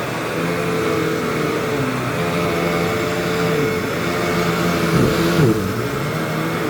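Hoover WindTunnel bagless upright vacuum cleaner running on carpet: a steady motor hum whose pitch dips and recovers briefly about five seconds in.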